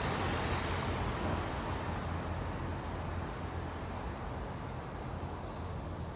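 Night road traffic: a passing vehicle's tyre and engine noise fades away as it drives off, leaving a low steady rumble of road noise.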